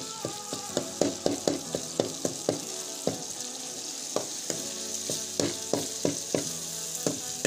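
Chopped tomatoes and green chillies sizzling in oil in a metal pot, frying the masala base for a chicken curry. A metal ladle stirs it, scraping and clinking against the pot a few times a second.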